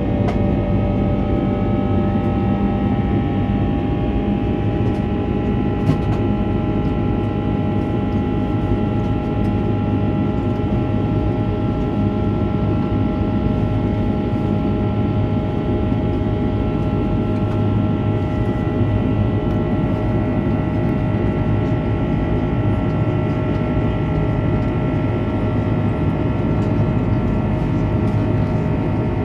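Airbus A330-343 cabin noise in flight: the steady rush of its Rolls-Royce Trent 700 engines and airflow heard from inside the cabin, with engine tones that rise slightly in pitch early on and then hold.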